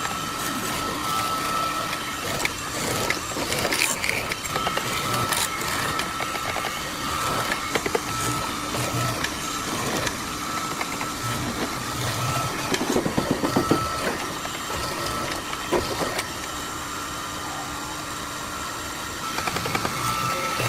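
A machine motor running with a steady high whine, with irregular clicks and knocks over it.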